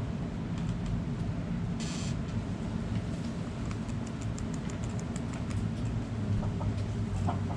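A steady low hum with faint, rapid high ticking over it and a short high buzz about two seconds in. A chicken starts clucking just before the end.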